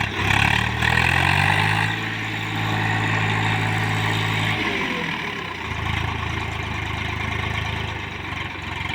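Swaraj 744 tractor's diesel engine running hard under the load of a full trolley. The engine note climbs in the first second and holds steady. About five seconds in, the revs fall away, and the engine settles to a lower, steady run.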